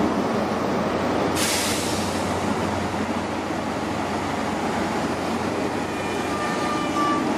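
Mark 3 coaches of a Great Western Railway HST (InterCity 125) rolling slowly past along the platform: a steady rumble of wheels on the rails. A short hiss comes about a second and a half in, and a faint high squeal near the end.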